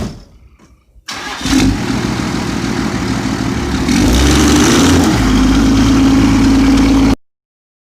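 First-generation Dodge Cummins diesel pickup engine running and revving, getting louder about four seconds in, then cutting off suddenly near the end.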